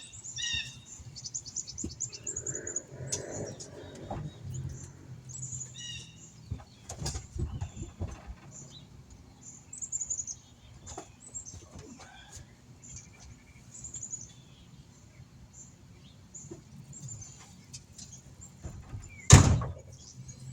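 Songbirds chirping in short high calls throughout, with scattered clicks and knocks of work going on. About 19 seconds in there is one loud thump.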